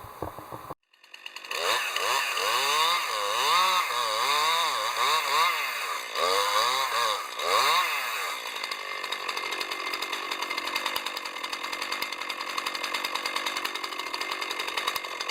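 Chainsaw engine revved up and down repeatedly in quick blips, then held at a steady high speed from about halfway on.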